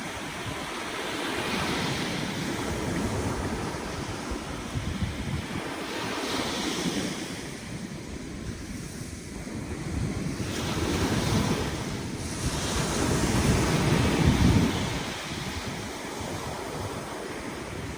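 Ocean waves breaking and washing up a beach, the surf swelling and easing every few seconds. Wind buffets the microphone throughout, with a heavy low rumble that is loudest about three-quarters of the way through.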